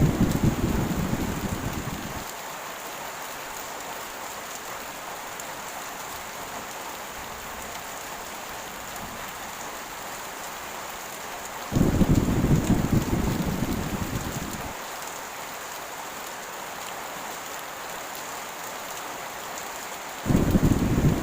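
Heavy rain falling in a steady hiss, with low rumbles of thunder that each start suddenly and die away over about three seconds: one fading in the first two seconds, another about midway, and a third breaking in near the end.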